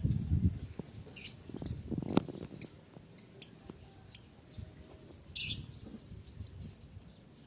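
Lovebird giving short, shrill chirps: one about a second in and a louder one about five and a half seconds in. Scattered clicks and low rustling come between them.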